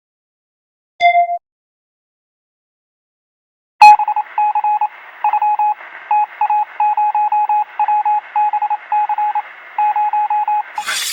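Electronic beeps: one short beep, then a click and a long run of rapid on-off beeps in uneven, Morse-code-like groups over faint static, with a thin telephone-like sound.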